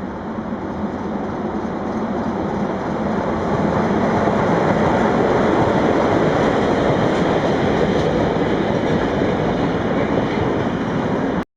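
Freight train passing on the rails: a steady rumble of wagons that grows louder over the first few seconds, holds loud, then cuts off suddenly just before the end.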